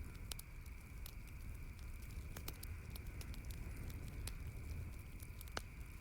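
Campfire burning, with irregular sharp pops and crackles over a steady low rumble; the loudest pop comes near the end.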